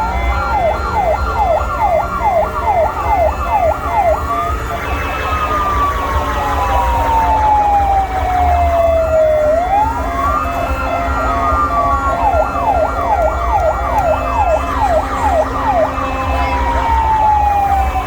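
Several fire engine sirens sounding together. Fast yelps of about two sweeps a second switch to slow rising and falling wails and back, over the low rumble of the engines.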